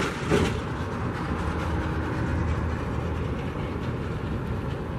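A steady low rumble of outdoor background noise, with no clear single event.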